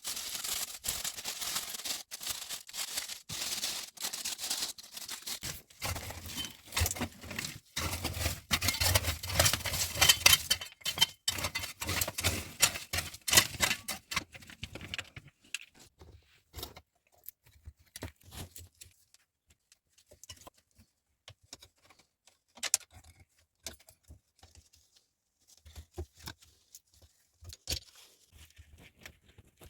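Close handling sounds: a dense run of small clicks, scrapes and rustles for about fifteen seconds, then only scattered clicks.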